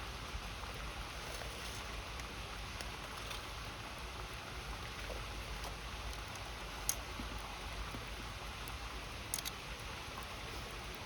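Steady rush of a flowing river, with a wood fire crackling now and then: a few sharp pops, two louder ones past the middle and near the end.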